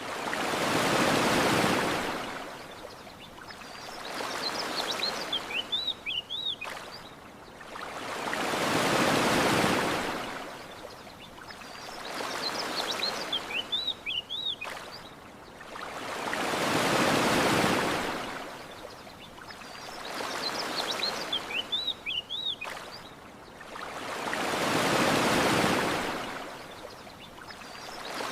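Gentle ocean waves washing onto a beach, each swell rising and falling off, a larger wave about every eight seconds with a smaller one between. Birds chirp in short bursts in the lulls between waves.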